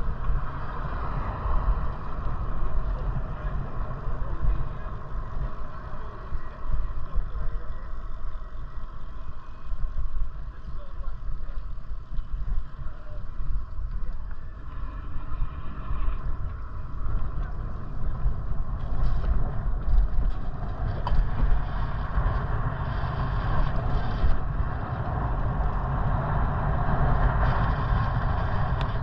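Wind rumbling on the microphone and road noise while riding an electric bike, unsteady and gusting throughout.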